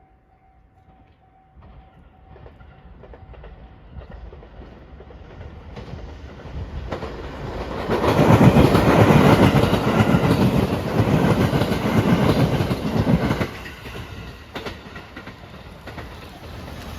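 A train passing over a level crossing. It builds up as it approaches, passes loudly for about five seconds with its wheels clicking over the rail joints, then drops away. A faint steady bell tone, typical of the crossing signal, is heard in the first few seconds.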